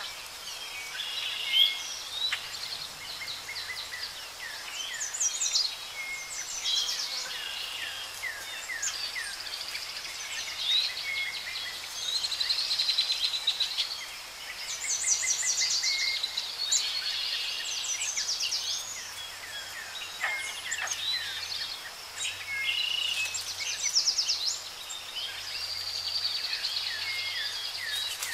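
Several songbirds chirping and trilling over a steady outdoor hiss, with short overlapping phrases throughout.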